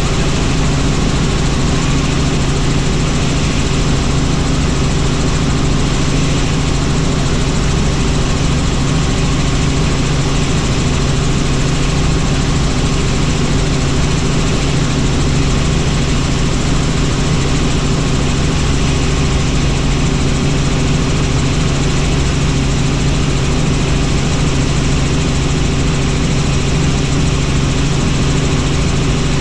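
Helicopter in flight: the engine and rotor drone at a constant pitch and level, with steady low hum tones under a wide rushing noise.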